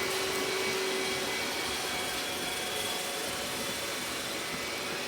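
Robot vacuum cleaner running as it cleans: a steady, even noise of its suction fan and brushes, with a few faint steady whines.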